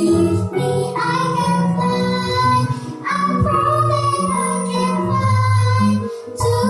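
A child singing a song with musical backing, holding long sustained notes.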